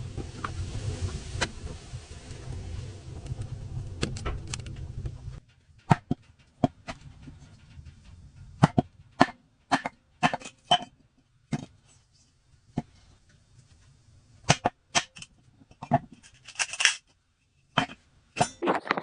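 A low steady rumble that cuts off about five seconds in, then a series of irregular sharp knocks and clicks.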